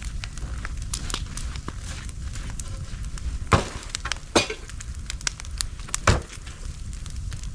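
Bonfire crackling over a steady low rumble, with many small crackles and three loud sharp pops: two close together about halfway through and one more about a second and a half later.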